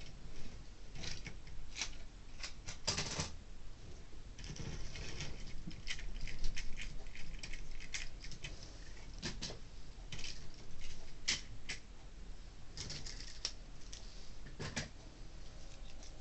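Irregular small clicks and rattles of OO gauge model railway wagons being handled by hand, plastic bodies and wheels knocking on the track and against each other.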